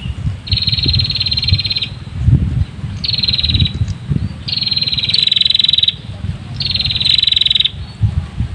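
Prenjak (red-headed warbler) giving harsh, buzzing scolding calls: four rattling calls of about one to one and a half seconds each, with short gaps between them. Wind rumbles on the microphone underneath.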